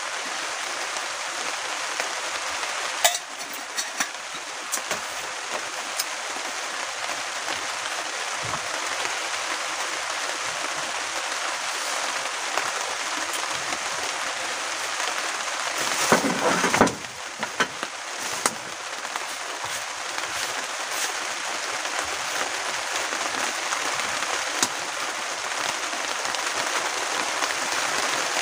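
Heavy rain drumming steadily on the roof of a pick-up truck camper shelter, heard from inside. A few clicks and rustles of things being handled come through it, the loudest about 16 seconds in.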